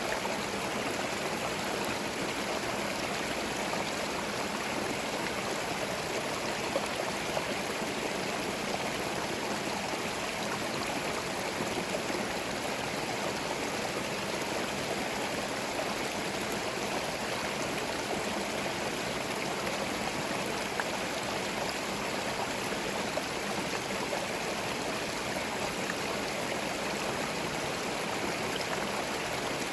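Gentle forest stream flowing: a steady, even rush of running water.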